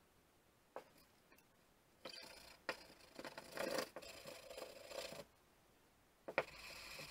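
Sandpaper rubbing on a wooden saw handle in scratchy spells, one of about three seconds and another starting near the end, with a small click before each.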